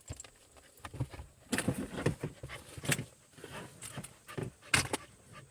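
A dog moving about inside a car, with rustling and irregular sharp clicks and knocks.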